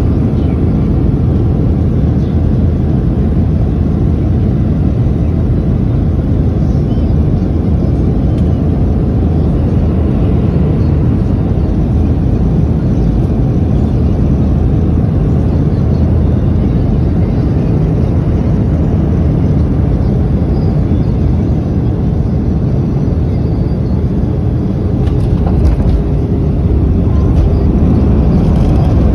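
Boeing 737 cabin noise: a steady, low rumble of engines and airflow, which grows a little louder about three-quarters of the way through.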